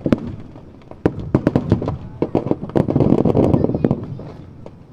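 Aerial fireworks bursting: a rapid run of sharp crackling reports from about a second in, then a broad rumbling boom around three seconds that fades away.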